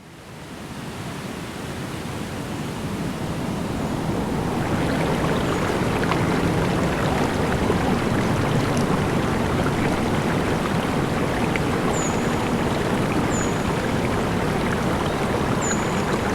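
Steady flowing water, like a stream, fading in over the first few seconds. A few short, high chirps come in the second half.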